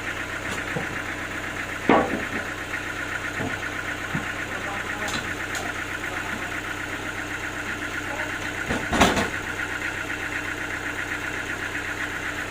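An engine running steadily at idle, with two loud knocks, about two seconds in and again near the end.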